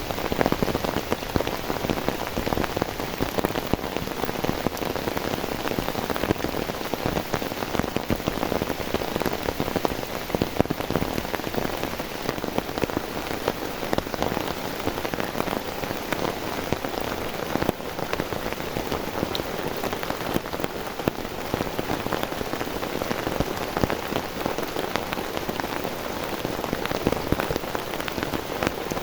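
Heavy rain falling steadily: a dense, even hiss made up of countless drop impacts, with no let-up.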